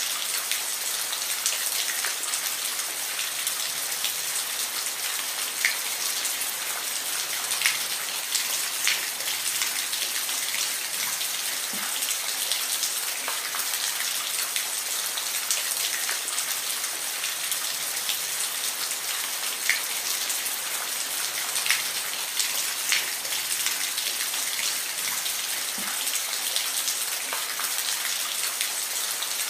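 Steady rain falling, with individual drops ticking sharply now and then over an even hiss.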